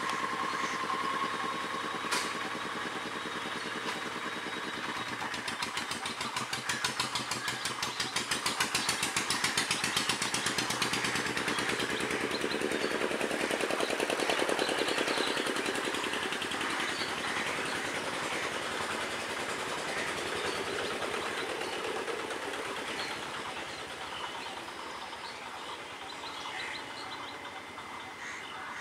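Electric multiple unit (EMU) local train running along the track, its wheels beating rhythmically over the rails for several seconds. The sound is loudest about halfway through and then slowly fades.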